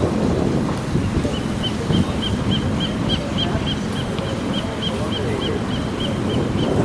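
Hoover Power Scrub Elite carpet cleaner running, a steady rushing rumble of its motor and suction. From about a second in, a faint high chirp repeats about three or four times a second over it.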